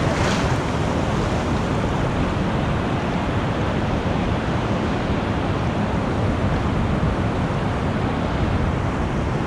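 Pacific surf washing in over the shallows, a steady rush of water with wind rumbling on the microphone.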